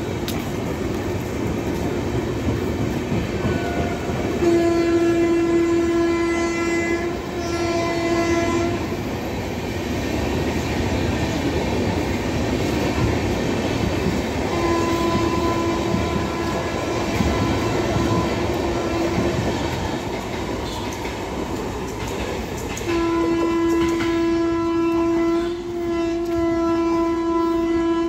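Indian passenger express train passing at speed, its wheels and coaches making a steady rolling noise and clatter. A train horn sounds in long held blasts: two about five to nine seconds in, a fainter one around fifteen to nineteen seconds, and two more near the end.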